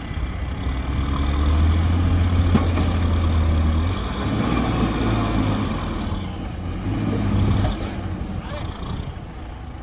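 Heavy diesel engines straining under load in mud, revving up and holding, easing off about four seconds in, then pulling hard again briefly before dropping back.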